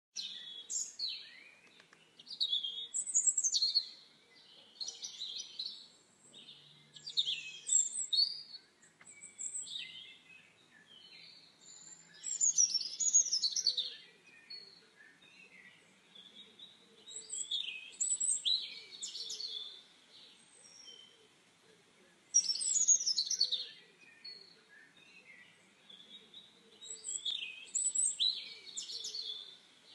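Songbirds singing: bursts of quick high chirps and downward-sliding whistled phrases every few seconds, with quieter gaps between.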